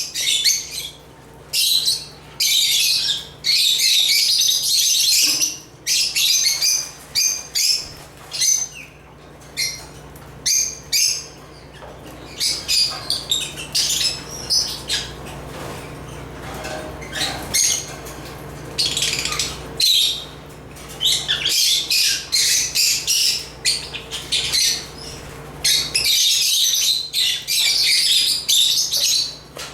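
African lovebirds chirping in rapid, high-pitched bursts of a second or two, one run following another with short pauses.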